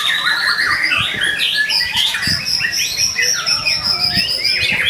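White-rumped shama (murai batu) in full, non-stop song: a fast run of varied whistles, trills and chattering notes, with a long thin high note held through the second half.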